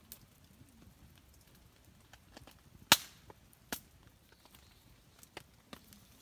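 Wood fire crackling: scattered small ticks and snaps, with one loud sharp pop about three seconds in and a smaller one just after.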